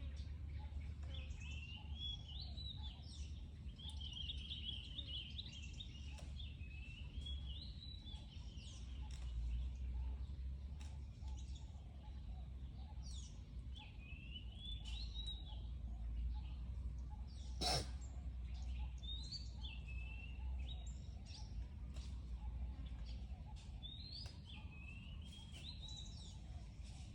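Birds chirping in short warbling phrases that come and go, over a steady low rumble; a single sharp click about 18 seconds in.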